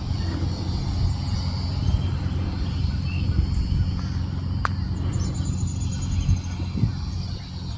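Wind buffeting the microphone as an uneven low rumble, with one sharp click about halfway through and a short run of high chirps just after.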